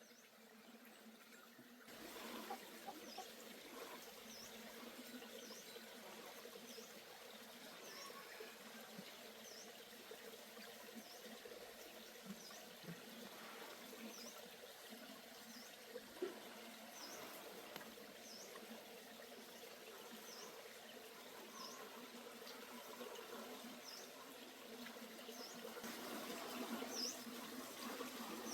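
A small bird repeats a short, high chirp roughly once a second over a faint steady hiss of background noise.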